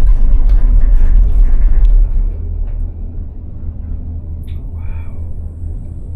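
Gondola cable car running with a deep, steady rumble, loud for about two seconds and then easing off, with a few faint higher sounds near the end.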